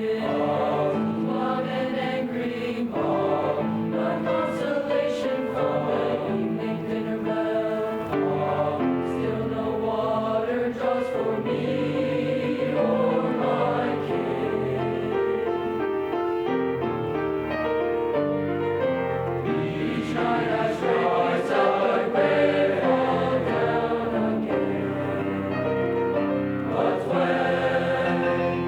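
An eighth-grade middle-school bass choir singing in parts, holding notes that change every second or so.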